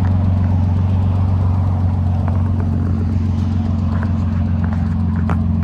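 A car engine idling steadily, a constant low drone with no revving.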